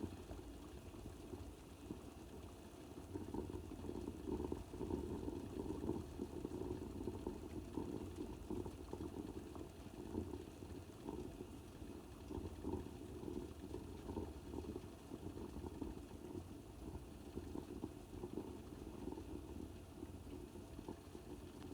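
Water boiling: a steady, low, dense bubbling with small irregular pops throughout.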